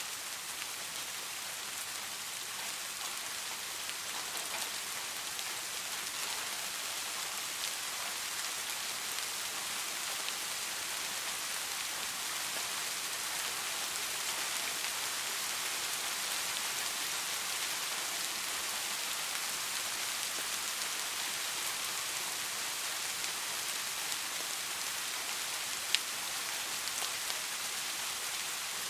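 Steady rain falling, an even hiss with scattered faint drop ticks, and one sharp louder drop click near the end.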